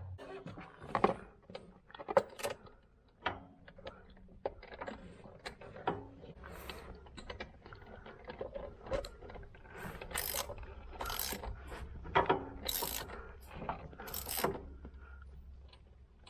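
Ratchet and spark-plug socket clicking and scraping as a new spark plug is threaded in and tightened by hand, with a run of louder ratcheting strokes in the second half.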